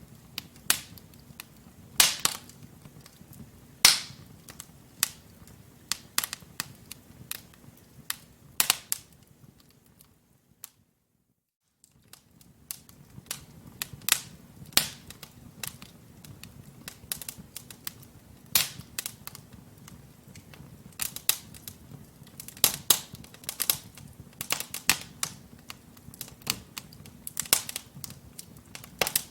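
Wood logs burning in a fireplace, crackling with irregular sharp pops and snaps over a low steady rush of flame. The sound drops out to silence for about a second and a half partway through.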